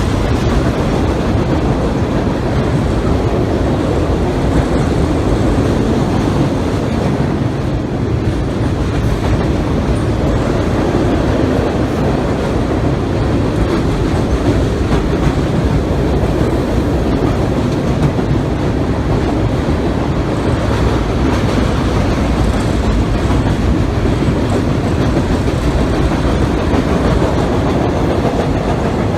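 Kansas City Southern freight train rolling across a railway trestle: a steady, loud clatter of freight-car wheels on the rails.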